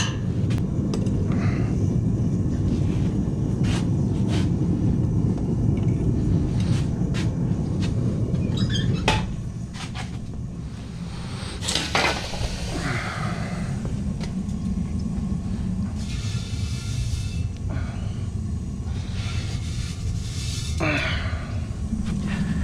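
Propane forge burner running with a steady low rumble that eases about nine seconds in, with scattered sharp metal clinks over it.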